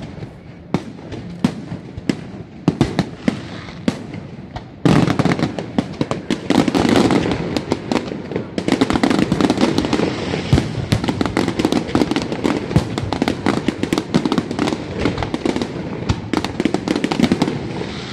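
Fireworks display: aerial shells bursting in separate sharp bangs, then about five seconds in a dense barrage of rapid bangs and crackling begins.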